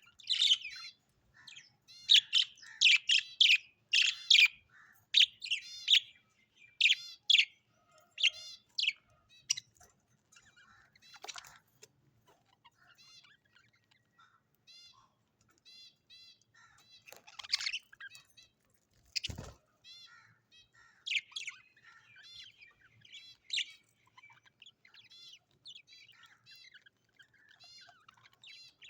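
Birds chirping in quick runs of short, high, arching calls, busy for the first third and then sparser. A single thump sounds about two-thirds of the way through.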